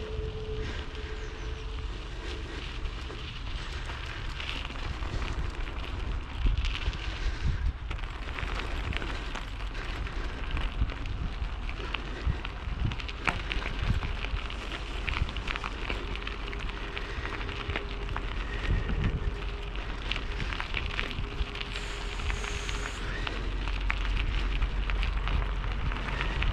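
Bicycle being ridden over a rough track: the tyres crackle and rattle continuously, and wind rumbles on the microphone.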